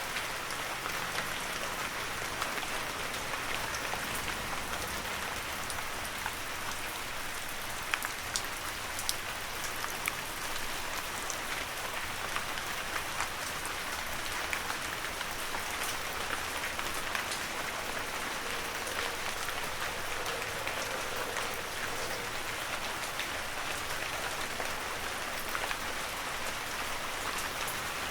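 Heavy rain falling steadily, a dense even hiss with many separate drops ticking on surfaces.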